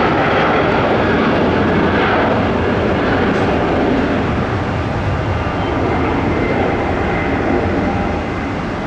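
The twin Rolls-Royce Tay 611-8 turbofan engines of a Gulfstream G-IV business jet running at takeoff power, a loud, steady jet noise that slowly fades over the last few seconds.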